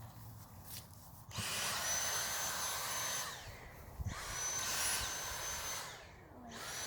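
Dyson cordless stick vacuum switched on in short spells sucking up dandelion seed heads, each spell starting with a rising whine as the motor spins up and running about two seconds before cutting off. This happens twice, and a third spell begins near the end.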